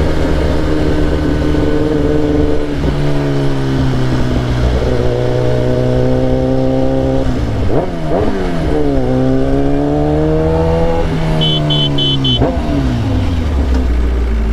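Motorcycle engine under way, its pitch climbing slowly and dropping at gear changes near 3 s and 7 s, with quick throttle blips around 8 s; it climbs again, then falls away near the end as the bike slows. A run of four short high beeps sounds about two-thirds of the way through.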